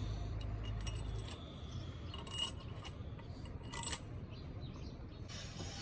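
Light metallic clinks and taps of metal parts being handled, loudest about two and a half and four seconds in, over a low steady hum that stops about a second in.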